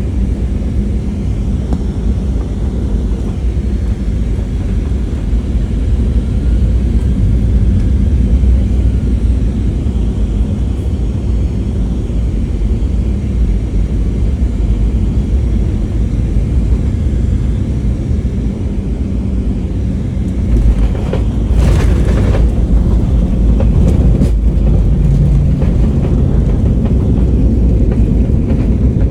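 Boeing 737 jet airliner on landing, a loud steady low rumble of engines and airflow. About 21 seconds in, a brief sharp, hissing noise rises over the rumble.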